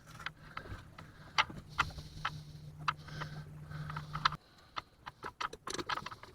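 Scattered sharp clicks and knocks of a landed catfish being handled and unhooked in a boat, over a steady low hum that cuts off suddenly about four seconds in.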